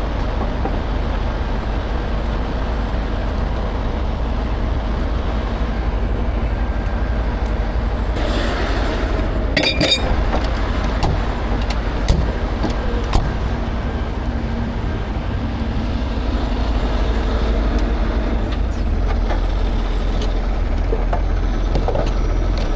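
Heavy tow truck's diesel engine running steadily. About eight seconds in there is a brief hiss, followed by a short metallic clatter.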